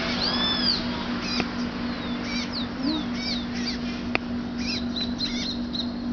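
Red-crested cardinal fledgling begging to be fed, with high, quick chirps and short down-sweeping notes, some in fast runs, over a steady low hum.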